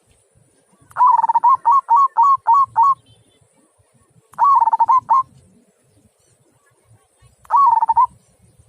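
Zebra dove (perkutut) cooing in three phrases: the first is a longer note followed by a run of about five short coos, then two shorter phrases come about three seconds apart.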